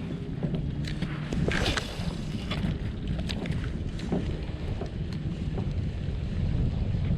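Wind buffeting the microphone in a steady low rumble, with a few light clicks scattered through it.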